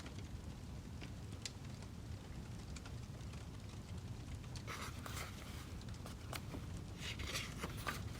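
Wood fire crackling: scattered sharp pops and ticks over a low steady rumble, with two brief rustling bursts about five and seven seconds in.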